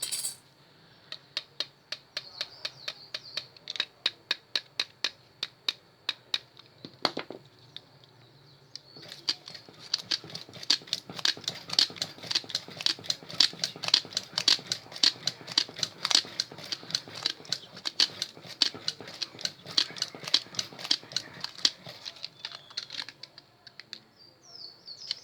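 Long run of light, sharp clicks and taps from copper wire being wound by hand onto an electric drill's armature. The clicks come two or three a second at first, then grow faster and louder, then ease off near the end.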